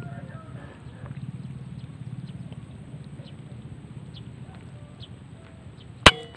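A single sharp, loud report from a PCP air rifle firing, about six seconds in, with a short ring after it. Before it there is a steady low hum and faint scattered chirps.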